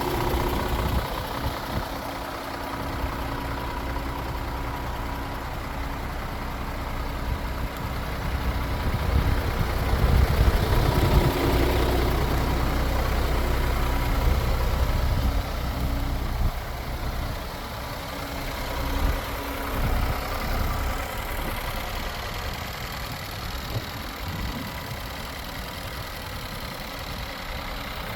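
Scania R450 truck's 13-litre inline-six diesel engine idling steadily, swelling louder for a few seconds around the middle.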